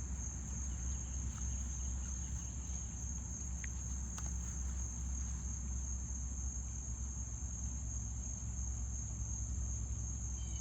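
Insects trilling in one steady, high, unbroken tone over a low, steady rumble, with a couple of faint ticks about four seconds in.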